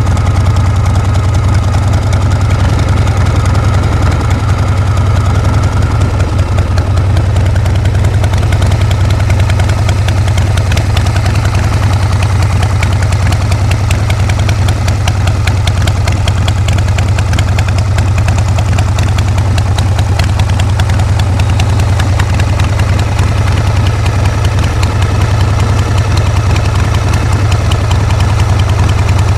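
Harley-Davidson Shovelhead V-twin motorcycle engine idling steadily, with an even rapid pulsing.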